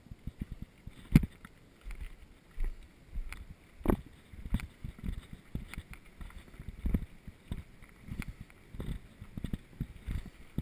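Mountain bike jolting and rattling over rough ground: irregular low thumps and knocks, with a sharp clack about a second in and another about four seconds in.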